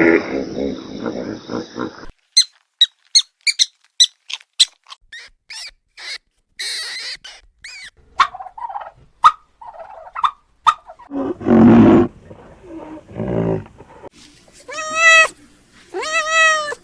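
A series of different animal calls. It opens with a loud low call, then comes a quick run of high squeaks and chirps, then a few mid-pitched calls and a short loud low burst. It ends with drawn-out meow-like cries near the end.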